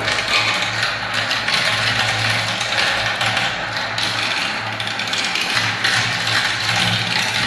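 Many small balls rolling and clattering down a plastic marble-run track, a dense, continuous rattle of tiny clicks, with a steady low hum underneath.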